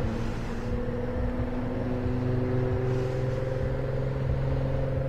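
Motorcycle engine running under way: its note drops at the start as it shifts up a gear, then rises slowly and steadily as the bike accelerates.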